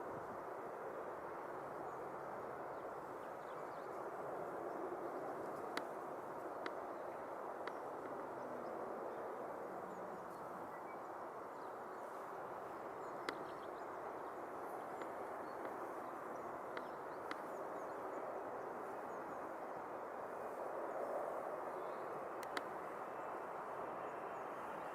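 Faint, steady outdoor background noise, a low even hiss with a few sharp clicks scattered through it.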